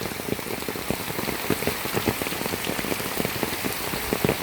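Heavy rain pouring down: a dense, even patter of countless drops striking the ground.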